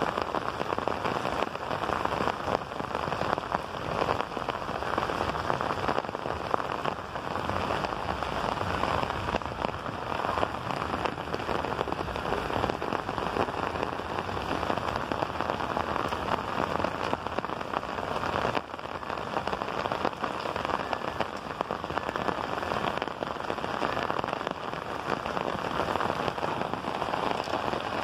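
Steady rain shower falling: a dense, even hiss of many drops, with close drops ticking through it. It eases slightly for a moment about two-thirds of the way in.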